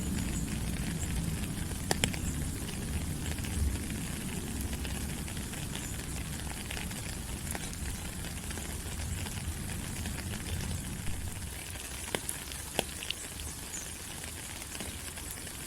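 Steady rain falling on rainforest leaves, an even hiss with scattered sharp drips landing close by. A low rumble underneath fades away over the first ten seconds or so.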